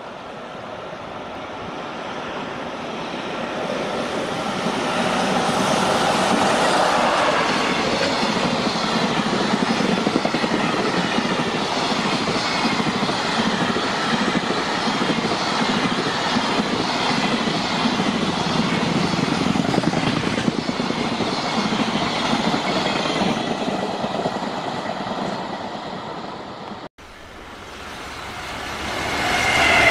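A long JR Freight container train running past on electrified track, its wagon wheels clattering steadily over the rails, growing louder over the first few seconds. Near the end, after an abrupt break, a second freight train hauled by an EF210 electric locomotive approaches and grows louder.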